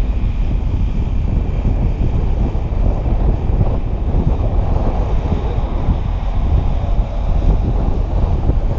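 Strong wind buffeting the GoPro's microphone: a loud, steady low rumble with fluttering gusts.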